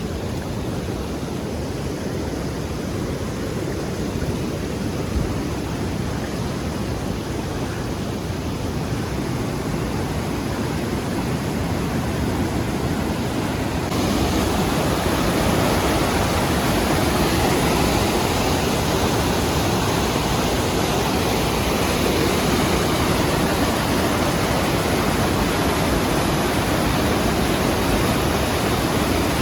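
Steady rush of a mountain waterfall or stream. About halfway through it cuts to a louder, fuller rush.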